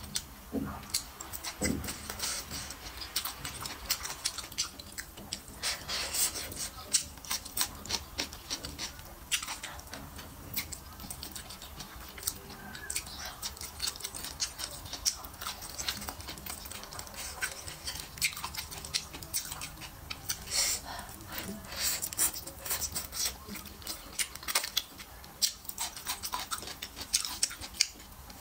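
Close-miked chewing of braised pig's trotter: rapid, irregular wet smacks and clicks of lips, tongue and teeth on sticky, gelatinous skin.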